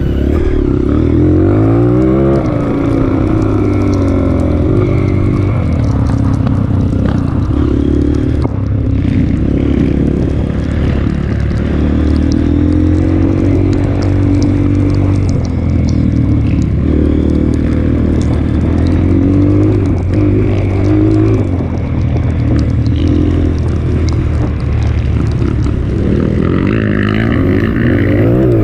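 Honda CRF230F trail bike's single-cylinder four-stroke engine running under load, its revs rising and falling over and over as the rider works the throttle and gears.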